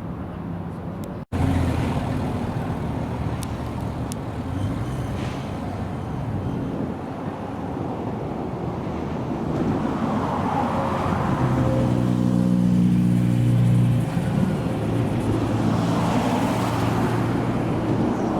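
Car engines running amid traffic, with an edit cut about a second in. Past the middle, one engine holds a steady tone for about two seconds before dropping away.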